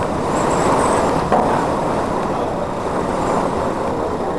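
Hurricane-force wind blowing hard in a steady rushing noise, heard from inside a building lobby, with a single short knock about a second in.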